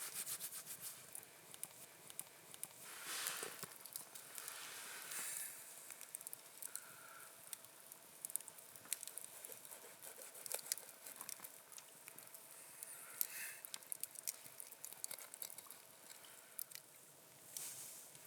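Close, quiet handling noise: rustles and a few short scraping swishes among many small scattered clicks and crackles.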